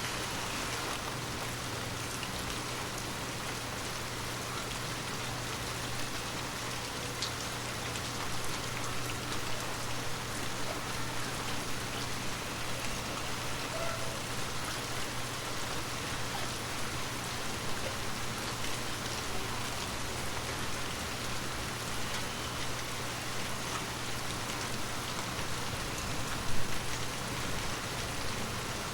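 Heavy rain falling steadily, a dense even hiss with scattered individual drops; one louder drop hits near the end.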